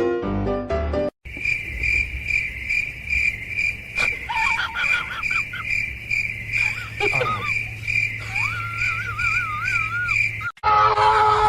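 Steady high insect chirping, cricket-like, repeating about two to three times a second, with short warbling whistled calls over it partway through. Piano music plays briefly at the start before a cut.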